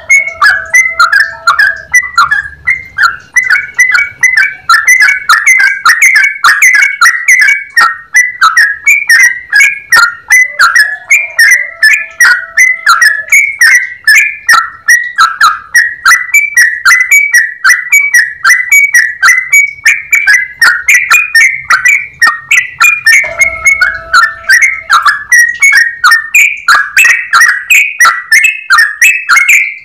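Yellow-vented bulbul singing continuously: a long, fast run of clear whistled notes, about three a second without a break. A lower held note comes in three times.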